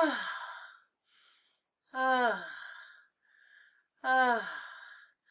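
A woman's voice making three short, breathy sighing sounds about two seconds apart, each falling in pitch and trailing off, with quick in-breaths between them: pleasure sounds voiced deliberately as a sound exercise, done faster.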